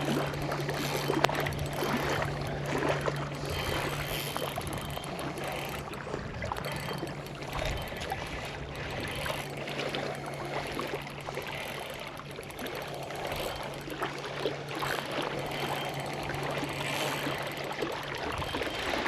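Water splashing and lapping as a hooked smallmouth bass is fought and reeled toward the bank, over a steady low hum that fades near the end.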